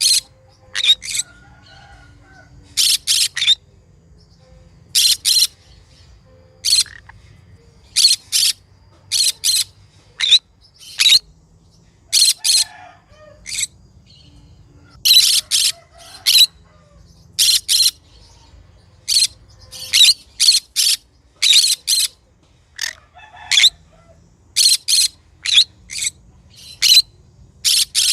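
Green conure, a small parrot, giving short, sharp, high-pitched chirping calls, often in quick pairs or threes, about once a second throughout.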